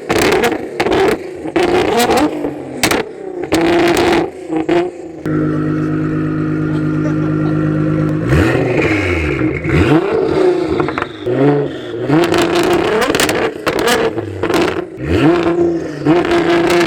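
Car engine revving in repeated blips, with rises and falls in pitch and a few seconds of steady running near the middle. Sharp crackles are scattered throughout.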